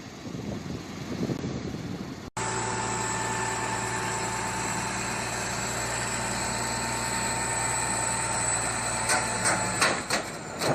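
An engine running steadily, holding several even tones, which starts abruptly a little over two seconds in after a rougher noisy stretch. A few sharp knocks come near the end.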